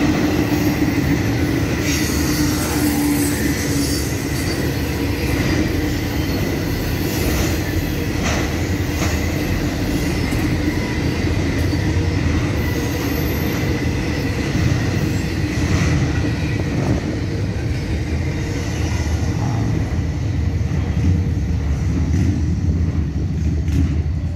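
Intermodal freight train cars rolling past at speed: a steady rumble and clatter of steel wheels on rail, with a thin, steady, high squealing tone over it.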